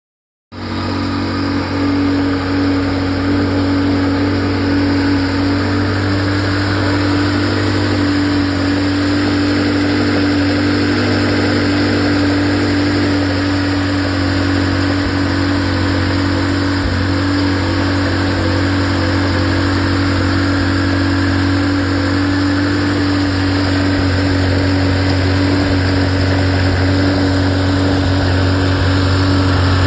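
Ferrari F355's V8 engine idling steadily, with a strong, even hum that starts about half a second in.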